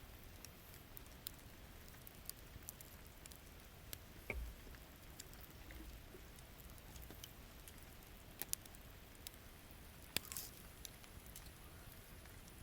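Wood campfire crackling with scattered sharp pops, the loudest about ten seconds in, over a faint steady hiss of rain.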